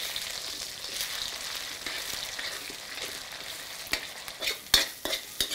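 Onion-tomato-coconut masala paste sizzling as it fries in hot oil in a hammered metal kadhai, stirred with a metal spoon. Near the end, a few sharp clicks and scrapes of the spoon against the pan.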